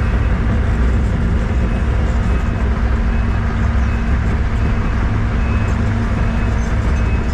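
Diesel engine of a piece of construction equipment running steadily at a constant speed, with no revving or pauses.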